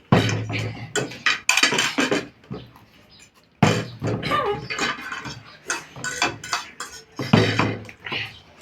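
Repeated knocks and clatter of objects on a table, in short irregular bursts.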